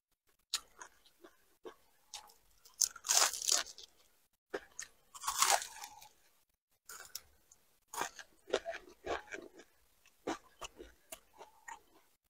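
Close-up crunching and chewing of a piece of fried fish. There are loud crunchy bites about three seconds in and again at about five and a half seconds, with quieter chewing clicks between them.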